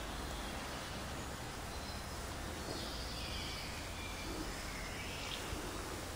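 Steady background noise with faint bird chirps and calls in the middle of the stretch.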